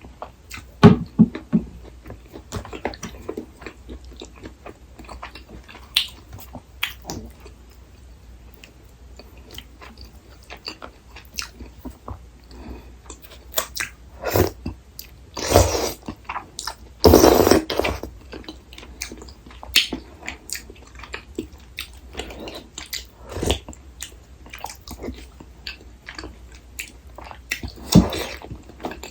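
Close-miked eating sounds of a tteokbokki meal: chewing and biting with wet mouth clicks scattered throughout, and two longer, louder noisy bursts about halfway through.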